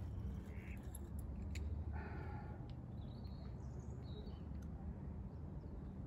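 Birds calling: a short call near the start, a longer, harsher call about two seconds in, then a few higher chirps, over a low steady rumble.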